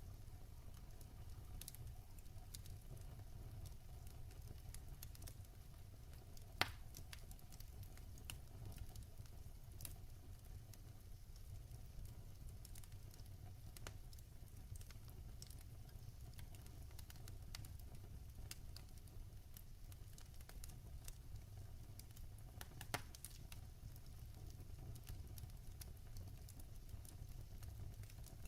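Wood fire crackling quietly over a low steady rumble, with scattered small ticks and two sharper pops, one about a quarter of the way in and one near the end.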